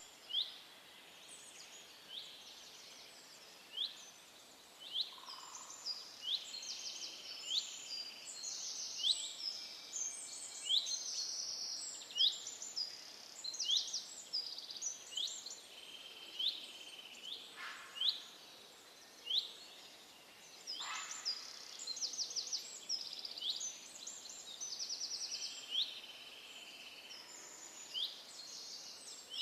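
Several small songbirds chirping and trilling, with short high notes overlapping continuously over a faint background hiss.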